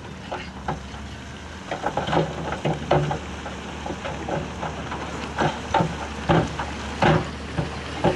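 Bulldozer engine running with a steady low hum, while irregular sharp knocks and clatters of stone being pushed start about two seconds in.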